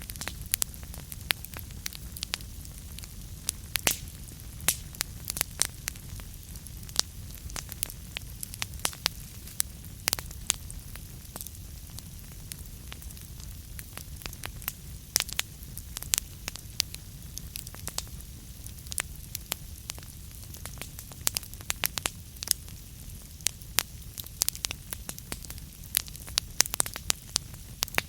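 Wood fire burning in a fireplace: a steady low rumble of the flames under irregular sharp crackles and pops from the burning logs, which come thicker near the end.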